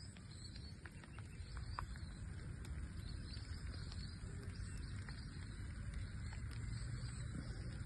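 Steady rain falling, an even hiss with scattered drops ticking sharply now and then.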